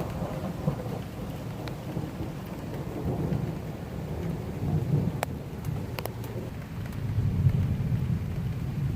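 Thunder rumbling low and long through a thunderstorm, swelling and easing, with steady rain falling. A few sharp ticks come about five and six seconds in.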